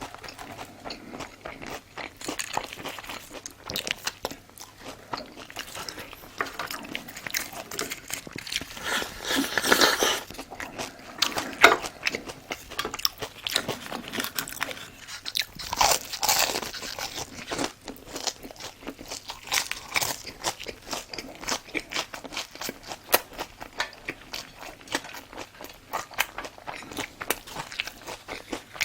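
Close-miked eating: biting and chewing crunchy food, with many small crunches throughout and louder crunching bursts about ten seconds in and again around sixteen seconds.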